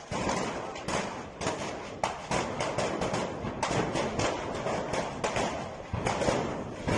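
A burning port warehouse with stored fireworks going off in it: a dense run of irregular sharp pops and crackles, several a second, over a steady rushing noise.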